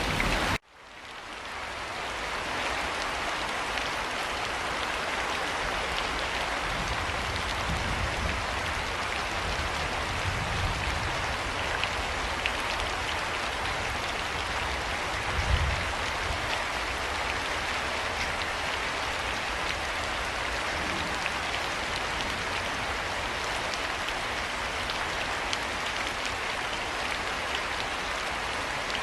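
Steady rain falling and pattering on surfaces, a dense even hiss. It cuts out just after the start and fades back in over a couple of seconds. A low rumble comes and goes underneath, with a brief low thump about halfway.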